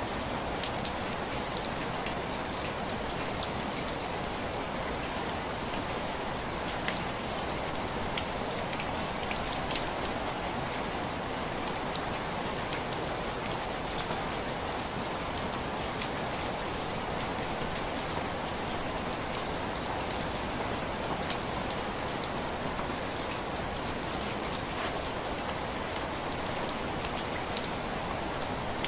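Steady rain pattering on window glass: a constant hiss of rainfall with scattered sharp ticks of single drops hitting the pane.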